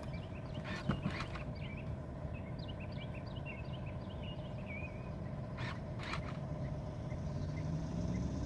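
Power-folding third-row seats of a 2023 Jeep Grand Cherokee L running on their electric motors with a steady hum as they fold flat, with a few clicks from the seat mechanism.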